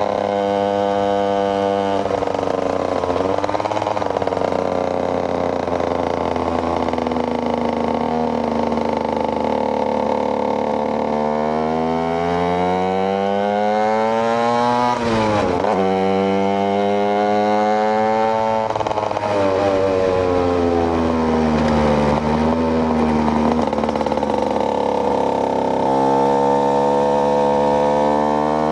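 KTM EXC 125's single-cylinder two-stroke engine being ridden, its pitch rising and falling with the throttle and gear changes. The revs climb steadily for a few seconds and then drop sharply about halfway through. They climb again and then ease off and sag through the later part.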